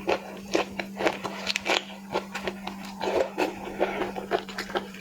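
Close-miked chewing and biting into seafood: a quick run of wet clicks and crunches, several a second.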